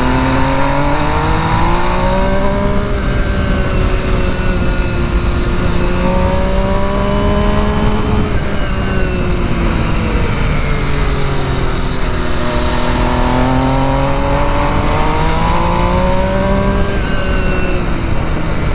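Sport motorcycle engine running at moderate revs, its pitch slowly rising and falling as the rider accelerates and eases off, with a steady rush of wind over the microphone.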